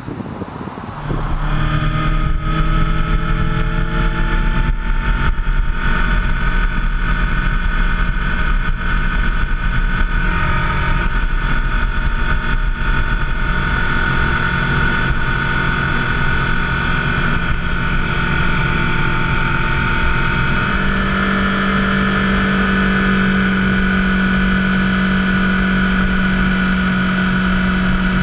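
Motorcycle engine running steadily under way, with wind and road noise, starting abruptly about a second in. Its low note steps up about 20 seconds in.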